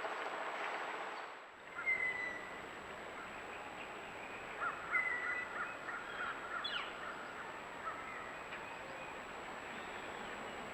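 Birds calling outdoors: a few short calls about two seconds in, then a burst of several calls a couple of seconds later, over a steady background hiss.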